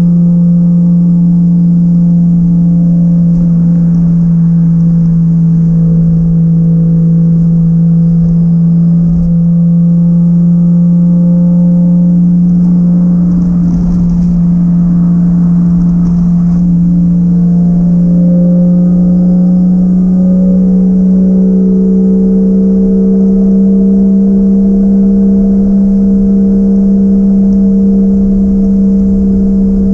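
Toyota 1JZ-GTE VVTi turbocharged straight-six holding steady revs under way, a loud even drone that rises slightly in pitch about twenty seconds in.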